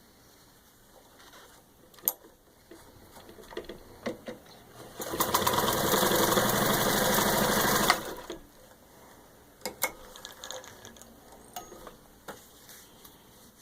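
Singer 66-16 sewing machine running under its electric motor for about three seconds in the middle, at a steady fast speed, as it stitches through four layers of leather. Scattered clicks and knocks come before and after the run.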